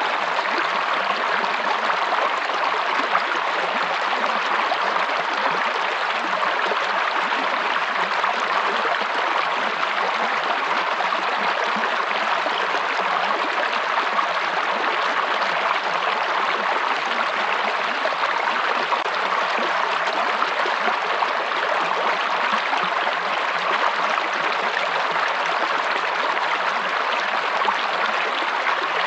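Flowing stream water rushing and babbling steadily over rocks, an even unbroken sound with no birds or other events on top.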